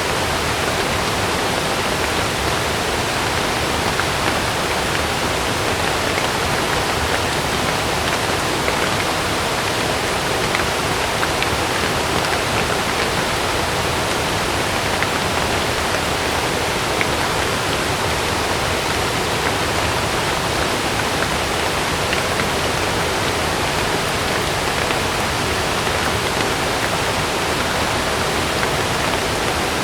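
Heavy rain falling in a steady, dense rush, with no thunderclaps or gusts standing out.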